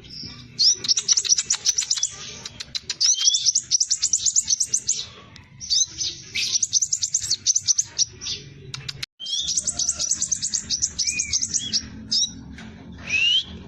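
Scarlet minivet singing high-pitched, fast, dense trilled bursts, four of them, each one to two seconds long, with short rising whistled notes between them and near the end.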